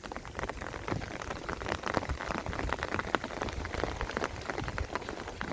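Rain falling, with a dense, irregular patter of drops striking close by over a low rumble.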